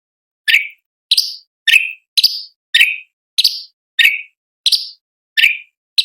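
Cucak cungkok (orange-bellied leafbird) repeating a short, sharp call note about every 0.6 seconds, ten times in a row, each note starting abruptly and falling away quickly.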